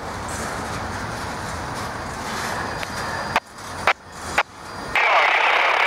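A passing train's steady rolling rumble and wheel noise, broken in the second half by several abrupt cut-offs and jumps in level.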